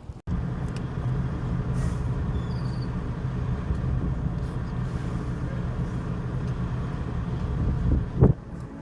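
Heavy diesel truck engine running steadily, with a short loud burst near the end.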